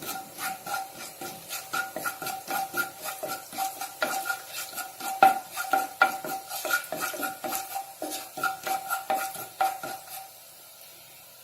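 A spoon stirring fennel seeds in hot oil in a non-stick pan, with rapid clinks against the pan that ring with a steady tone and a light sizzle underneath. The stirring stops near the end.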